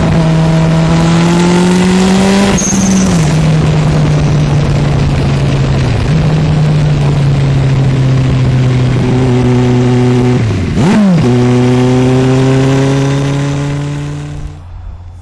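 Turbocharged Suzuki Hayabusa inline-four engine running hard under load, its pitch climbing slowly. The pitch dips briefly about 3 s in, with a short high whistle, and again near 11 s. The sound falls away sharply near the end.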